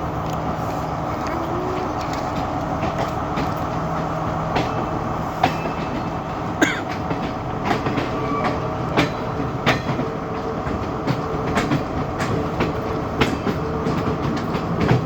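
Class S14 diesel multiple unit running along the line: a steady engine drone with irregular clicks and knocks from the wheels on the track.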